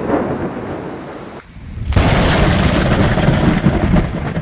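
Thunder rumbling. An earlier rumble fades away, then a second, louder rumble starts about two seconds in and lasts a couple of seconds before dying down.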